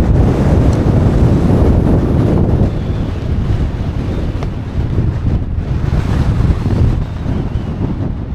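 Strong wind buffeting the microphone, a loud gusty rumble that eases slightly after about three seconds.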